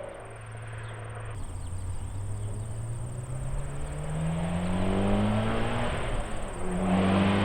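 Mitsubishi Lancer Evolution X's turbocharged four-cylinder engine, fitted with a loud bolt-on aftermarket exhaust, accelerating with rising pitch and growing louder as the car approaches. The engine note breaks briefly about six seconds in, as at a gear change, then pulls again louder.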